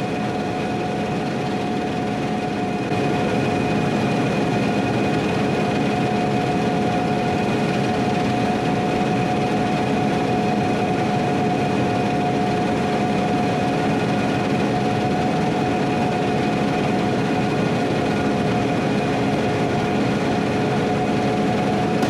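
Heavy farm machinery running steadily under load, a constant engine and mechanical rumble with a steady high whine over it; it gets a little louder about three seconds in.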